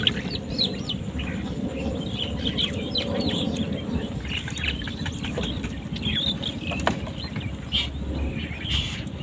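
Small birds chirping: many short, quick downward chirps, over a steady low background noise.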